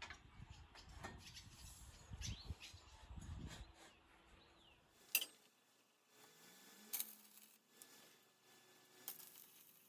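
Faint outdoor background with a few short bird chirps. Then the sound changes abruptly, and three sharp clicks or taps come about two seconds apart.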